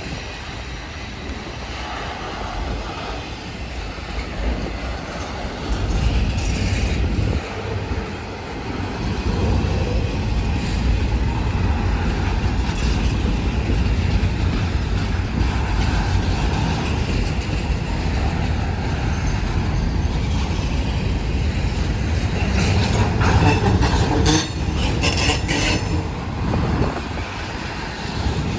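Union Pacific freight train rolling past, its cars rumbling and clacking over the rails, with a louder stretch of metallic clatter and squeal near the end.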